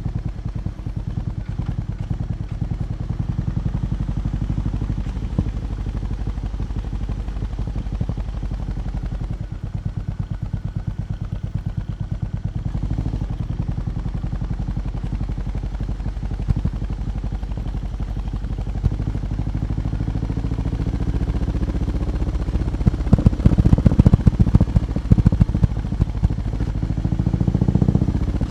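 BMW R18 B's big boxer-twin engine idling with a steady, low exhaust pulse; from about twenty seconds in it is revved several times, the pitch rising and the sound getting louder toward the end.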